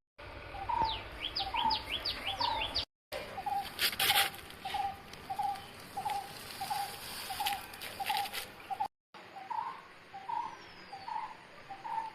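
Birds calling: one bird repeats a short call about twice a second, while quick high, falling chirps sound over the first few seconds. The sound cuts out briefly twice, where separate recordings are joined.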